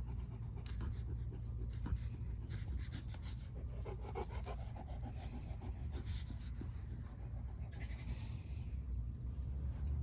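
A dog panting in quick, rapid breaths, over a steady low rumble.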